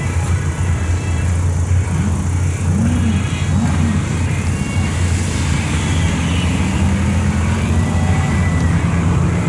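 V8 drag cars, the 1972 Dodge pickup's 440 and the 1970 Chevy Monte Carlo's 350, over a steady low rumble. An engine revs up and down in quick blips about two to four seconds in. From about halfway through, an engine's pitch climbs steadily as it accelerates.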